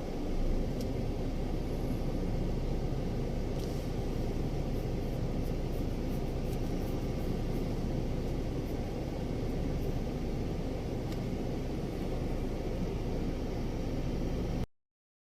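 Steady low rumble of a running vehicle, which cuts off abruptly near the end.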